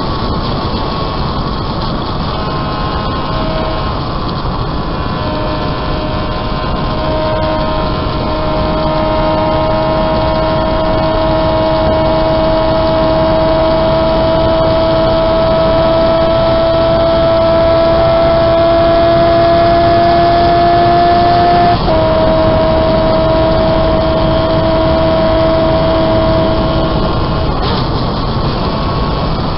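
Home-built three-cylinder engine of a 195cc Gillette special racing motorcycle at high revs, over loud wind rush; the note climbs slowly, drops sharply at a gear change about 22 seconds in, then falls away near the end. It pulls cleanly without missing a beat.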